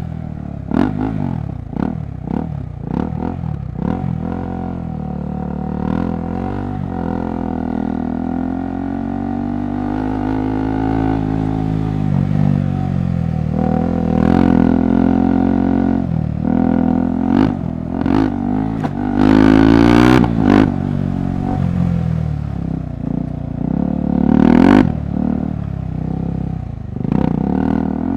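KTM 390 Adventure's single-cylinder engine riding off-road, its pitch rising and falling again and again with the throttle, with frequent short knocks and clatter over the rough trail.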